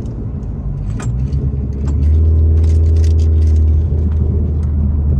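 Car engine and road noise heard while driving, a steady low drone whose engine hum grows stronger and holds steady about two seconds in, with a couple of light clicks or rattles early on.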